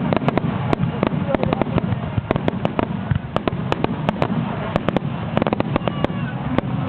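Aerial fireworks going off in a rapid, dense barrage: many sharp bangs and crackles over a continuous low rumble.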